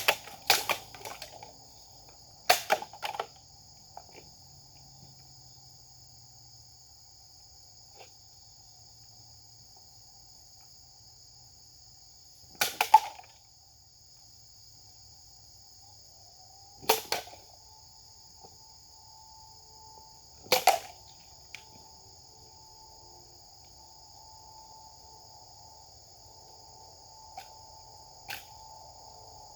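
Sharp swishing cuts of a Japanese sword (katana): a few close together near the start, then single cuts about four seconds apart after a pause of nearly ten seconds. Insects drone steadily at a high pitch underneath.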